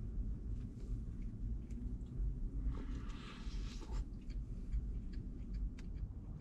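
A person chewing a bread roll: scattered small mouth clicks, with a longer breath about three seconds in, over a steady low rumble.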